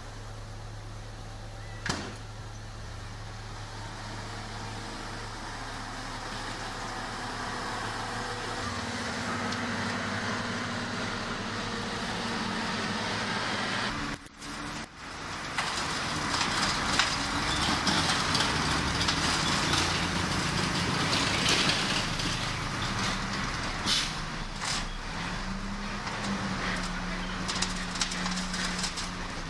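Heavy diesel construction machinery running steadily. About halfway through there is a brief dropout, after which the engine sound is louder and rougher, with more noise over it.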